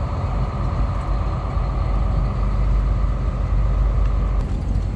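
Semi-truck engine and road rumble heard from inside the cab while driving, with a steady whine running alongside that stops shortly before the end.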